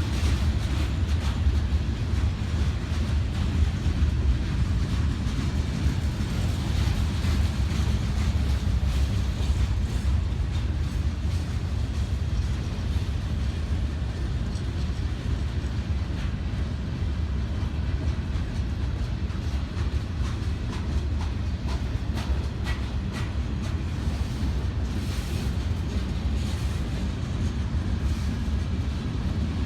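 Freight train rolling past, a steady low rumble with scattered faint clicks.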